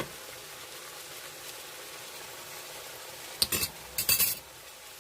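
Squash and pork stir-fry sizzling steadily in a covered pan, with two short bursts of kitchenware clattering about three and a half and four seconds in.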